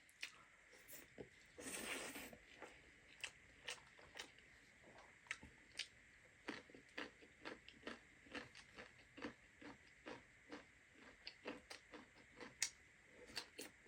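Close-up eating sounds: a person chewing food, with irregular soft wet clicks and smacks of the mouth, one or two a second.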